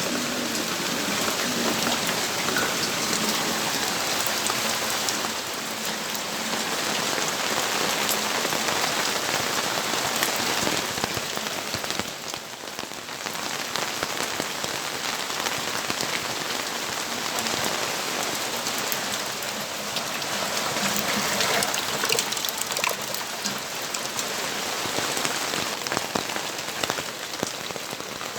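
Steady rainfall, drops pattering on surfaces with scattered sharper drip taps; it eases briefly a little before halfway.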